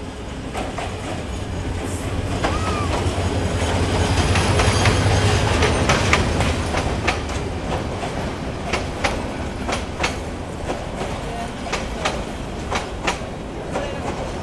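A train running on the rails: a rumble that builds to its loudest about five seconds in, then the wheels clacking over the rail joints, a sharp clack every half second or so.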